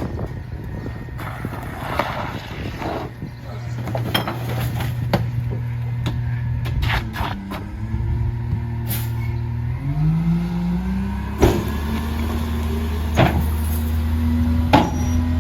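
Mack LR rear-loader garbage truck's diesel engine running steadily, then revving up with a rising pitch about ten seconds in, with several sharp knocks and clanks scattered through.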